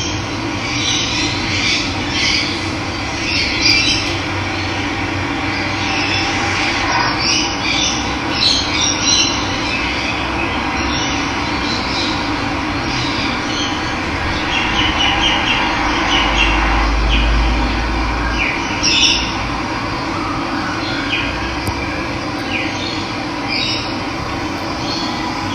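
Steady rush of running water with many wild birds chirping and calling over it in short, scattered notes.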